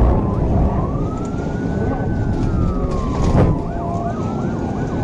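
Police car siren on a slow wail, rising and falling about once every three seconds, over heavy road and engine noise, with a brief knock about three and a half seconds in.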